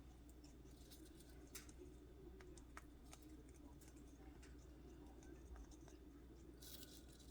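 Near silence: faint room hum with a few scattered faint clicks.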